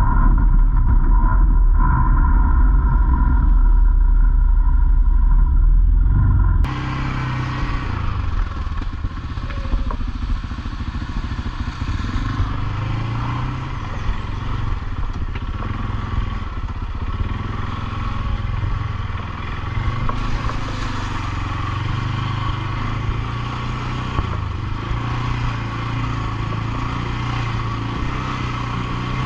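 ATV engine running on a trail ride, its pitch rising and falling with the throttle. About seven seconds in there is an abrupt cut from a heavy low rumble to a clearer, brighter engine sound.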